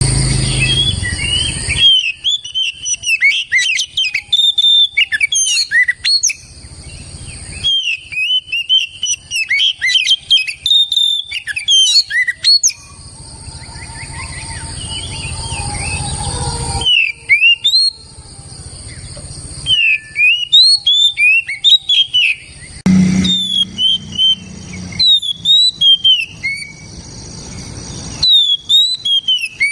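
Oriental magpie-robin singing a loud, fast, varied song of sliding whistled notes in dense bursts, with sudden breaks between phrases.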